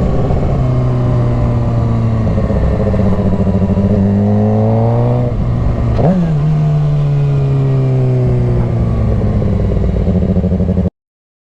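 Motorcycle engine running under way: its pitch climbs for a few seconds as it accelerates, gives a quick blip about six seconds in, then slowly falls as it slows. The sound cuts off suddenly near the end.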